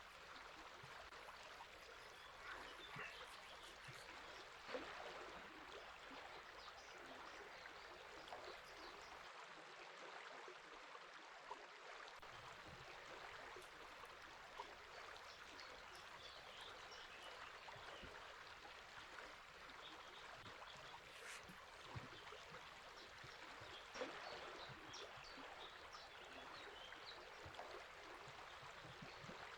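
Faint, steady rush of a river's flowing water, with scattered short bird chirps above it.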